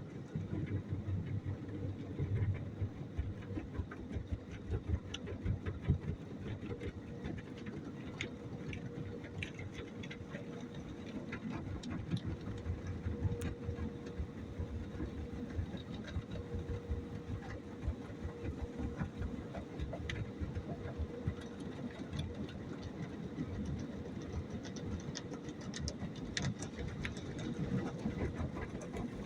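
Car wash machinery running steadily: a low mechanical rumble under a constant mid-pitched motor tone, with many small clicks and spatters.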